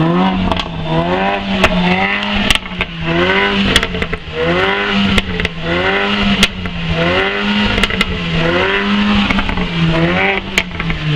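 A Mercedes's engine being revved repeatedly while parked: quick blips that rise and fall in pitch over and over, with scattered sharp cracks, insanely loud.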